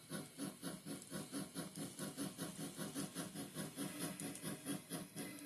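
Bachmann N scale 2-8-0 Baldwin Consolidation model locomotive running in reverse along the track. Its small electric motor and gear drive make a faint whir that pulses steadily, about five times a second.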